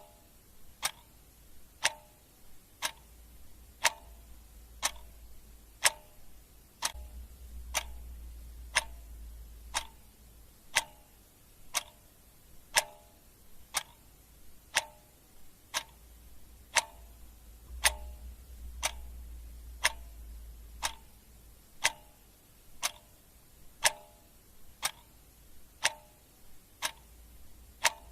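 Clock ticking in a steady tick-tock, a louder tick about once a second with a softer one between.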